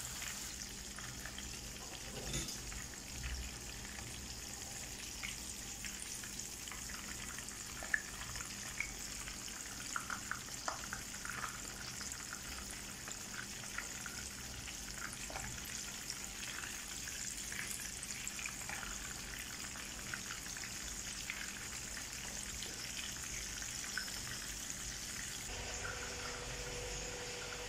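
Hot oil sizzling around crumb-coated chicken fillets shallow-frying in a pan, a steady hiss with scattered crackling pops. Near the end the sizzle cuts to a fainter hiss with a low hum.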